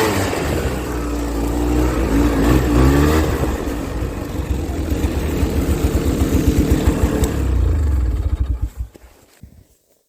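A small gasoline engine running with its revs rising and falling, pulsing faster in the middle, then dying away about nine seconds in.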